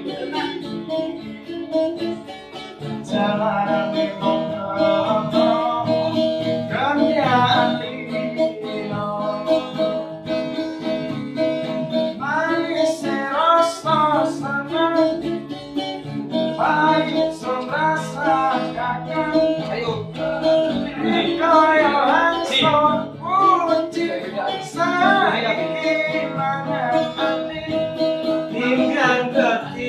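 A street busker singing a melodic song, his voice wavering across phrases, over a steady guitar accompaniment.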